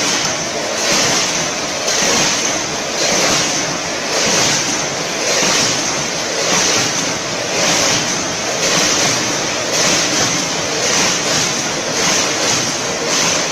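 Combination weigher snack-filling machine running, a steady noise that swells evenly about once a second with its packing cycle.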